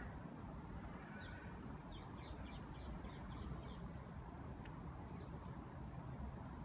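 A small bird chirping a quick run of about eight short, high notes a couple of seconds in, over a faint, steady low outdoor rumble.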